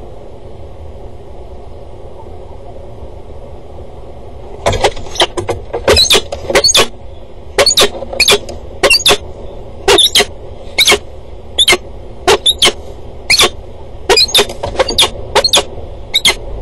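Loud, sharp bird calls repeated one to two a second, sometimes in quick pairs, starting about five seconds in, over steady outdoor background noise.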